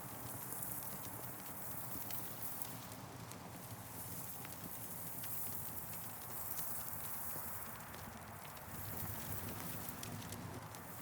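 Wood campfire burning, with scattered sharp crackles and pops over a steady hiss that swells and fades every few seconds.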